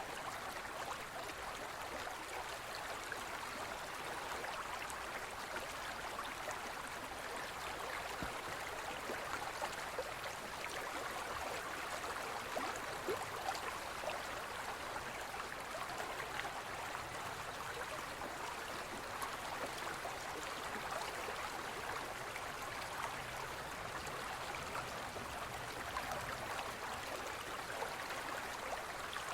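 Forest stream flowing steadily over rocks: a continuous babble with small splashes and gurgles.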